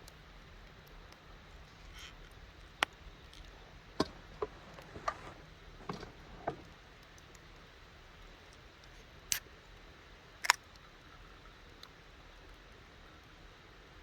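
Wood campfire crackling: a scattering of sharp, irregular pops over a steady low hiss, the loudest about ten seconds in.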